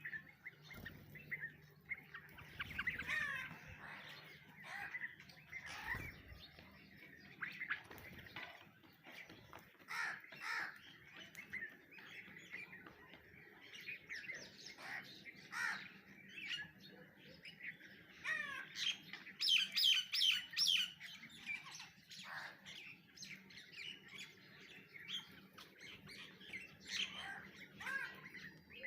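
Several birds chirping and calling continuously, with short repeated notes and trills and now and then a harsher call; a run of rapid, louder notes comes about two-thirds of the way through.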